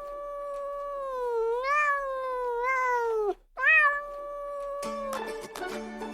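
Domestic cat meowing: one long, wavering meow, then a second, shorter one. Music starts about five seconds in.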